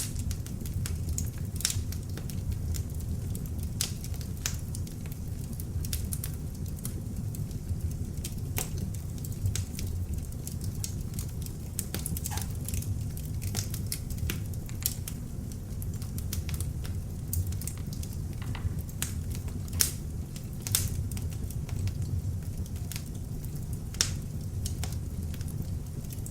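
Beech logs burning in an open fireplace: a steady low rumble of flame with irregular crackles and snaps, a few louder pops among them.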